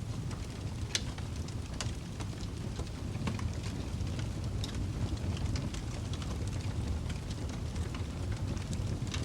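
Fireplace wood fire crackling, with a low steady rumble of the flames and many small sharp pops, a few louder ones standing out, the first about a second in.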